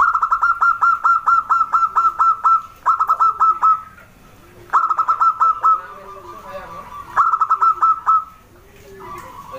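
Zebra doves (perkutut) calling in four quick runs of loud, rapid staccato notes, about five or six a second. Softer, lower notes fill the gaps between the runs.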